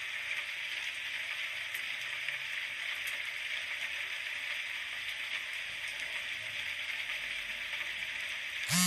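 Steady rain hiss with no separate drops standing out. Right at the very end a short, loud pitched sound breaks in over it.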